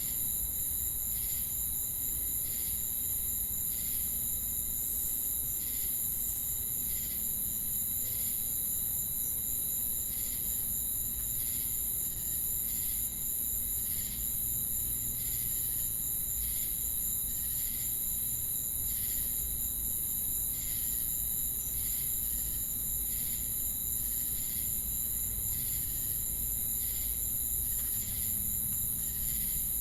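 Crickets and cicadas chorusing: a continuous high-pitched insect drone with steady shrill tones, and over it regular chirps repeating about every two-thirds of a second.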